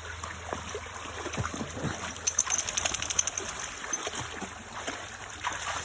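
Border collie wading and splashing through creek water, with a quick run of splashes about two seconds in, over the creek's steady trickle.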